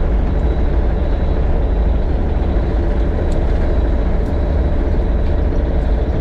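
Excavator's diesel engine running steadily while grading, a deep, even drone, with a couple of faint ticks in the middle.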